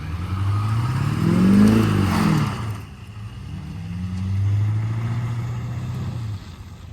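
A motor vehicle engine revving hard under throttle: the pitch climbs to a peak and falls back, then rises again and holds for about two seconds before the engine drops off, with a rushing noise over the first run-up.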